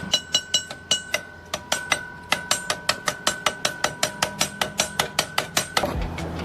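Rapid metallic knocking: sharp strikes at about five a second over a steady ringing tone, stopping shortly before the end.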